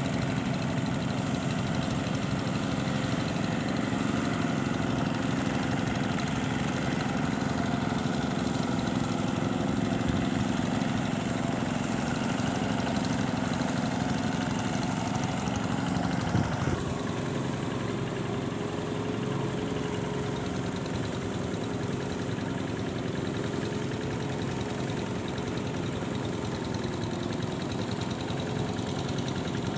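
An engine running steadily at idle, its sound changing abruptly about seventeen seconds in, after which a slightly wavering tone holds.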